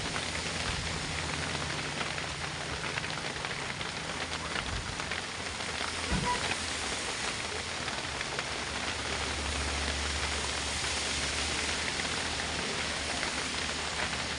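Heavy rain pattering steadily on the truck, dense with fine drop ticks, over the low steady hum of the truck's engine. A brief low thump about six seconds in.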